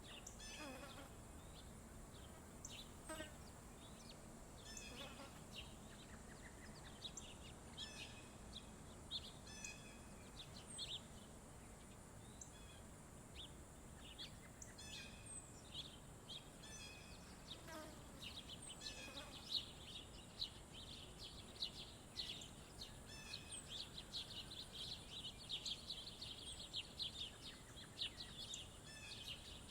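Songbirds at a feeder chirping and calling in many short notes, over a steady high-pitched buzz. About two-thirds of the way in, a fast, continuous chittering sets in.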